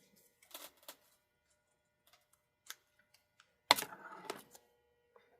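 Small clicks and taps of model parts and tools being handled on a workbench, with one louder sharp knock a little past halfway, followed by a brief rattle and a faint ringing tone.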